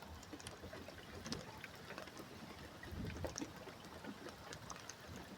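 Faint, scattered drips and ticks of water as rain dies away, over a low hiss, with a brief low rumble about three seconds in.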